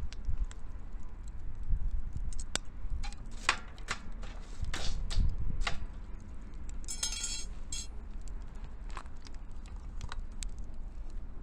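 Wood burning in a homemade pail-can wood-gas fire pit, crackling with irregular sharp pops over a low rumble. A short metallic rattle comes about seven seconds in.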